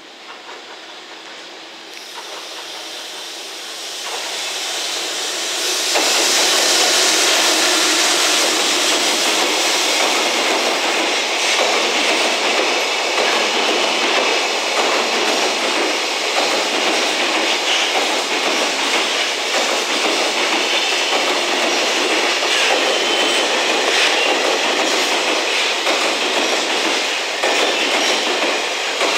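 JR Freight container train, hauled by an EF210 electric locomotive, approaching and passing close by. The rumble swells over the first six seconds, then holds as a steady loud rush of wheels on rail as the container wagons go past. A faint high ringing tone comes and goes in the last several seconds.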